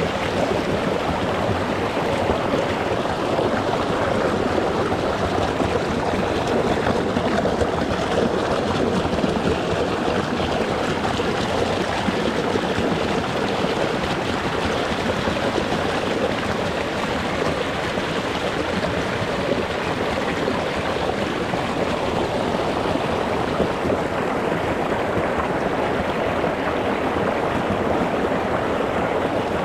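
Shallow rocky mountain stream rushing and gurgling over stones, a steady even rush of water with no pauses.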